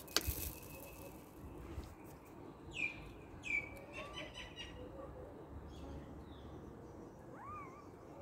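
Birds chirping now and then over faint outdoor background noise: two short downward chirps a few seconds in, and a rising-then-falling call near the end. A sharp click just at the start is the loudest sound.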